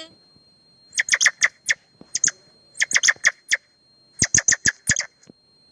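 Squirrel giving rapid, sharp chirping calls in four quick bursts of several chirps each.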